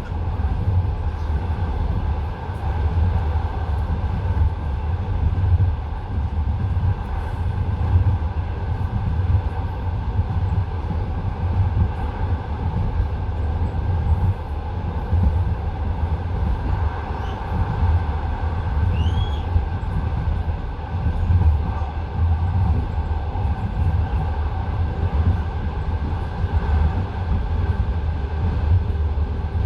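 Passenger train carriage running along the track: a steady rumble of the wheels on the rails, with irregular clicks and knocks from the wheels crossing rail joints.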